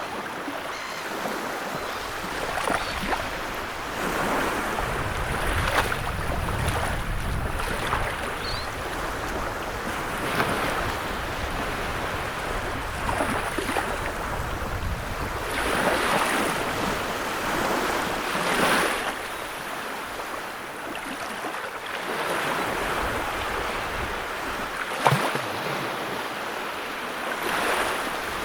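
Wood fire burning in a fireplace: a steady rushing of flames that swells and eases, with scattered crackles and one sharper pop a few seconds before the end.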